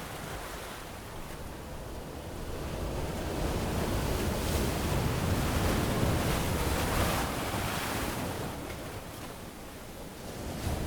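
Ocean waves washing onto a sandy beach. One wave swells over a few seconds and then draws back, and the next comes in near the end.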